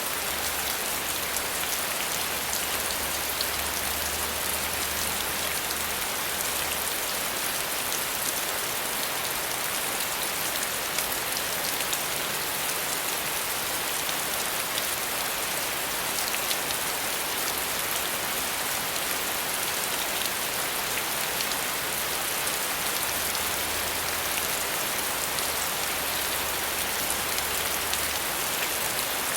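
Steady rain falling, with the fine ticks of individual drops over an even hiss.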